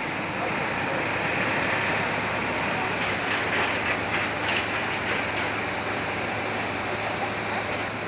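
Steady mechanical hum and hiss, with a constant low drone and a little more hiss in the middle.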